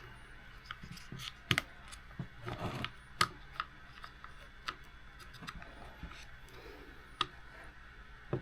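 Small plastic and metal RC car parts handled and fitted by hand: scattered light clicks and taps at an irregular pace, with a short rustle about two and a half seconds in.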